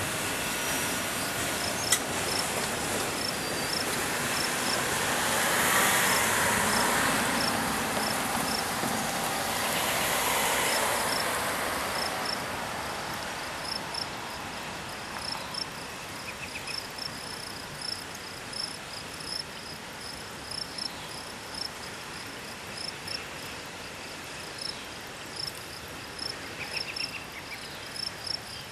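A freight train's loaded hoppers rolling past on the rails, the wheel and rail noise swelling twice in the first dozen seconds and then fading as the last car moves away. Insects chirp in a steady, even rhythm, left on their own as the train noise dies down.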